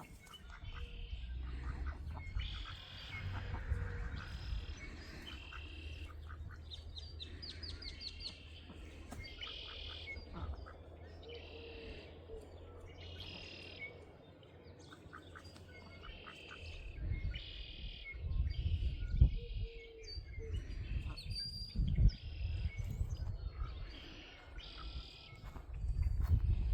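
Small birds chirping over and over, short high notes about once a second. Low rumbling noise comes and goes in the second half.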